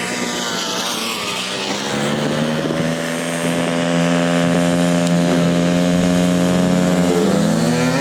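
Honda 50 dirtbike's small single-cylinder four-stroke engine running. The revs fall in the first second or so, then hold steady and fairly high, rising slightly near the end.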